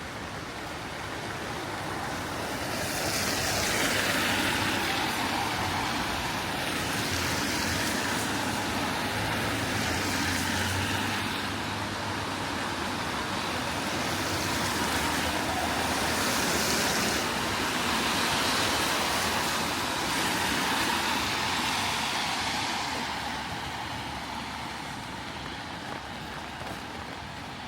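Road traffic passing on a rain-wet street: vehicles swell in from a couple of seconds in and go by one after another, their tyres hissing on the wet road, then fade near the end over steady rain.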